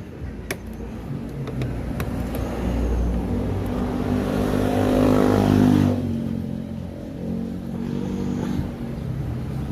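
A motor vehicle engine passing close by, growing louder to a peak about five to six seconds in and then dropping off sharply, with a fainter engine sound again near the end. A couple of sharp metallic clicks sound in the first two seconds.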